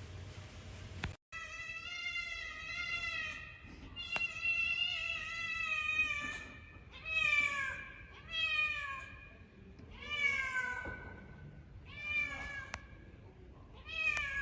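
A cat meowing over and over, about seven meows, the first two long and drawn out, several sliding down in pitch at their ends.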